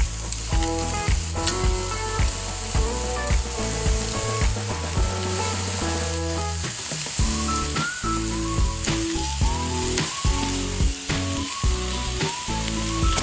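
Food sizzling and frying in a hot pan, a steady hiss, under background music with a bass line.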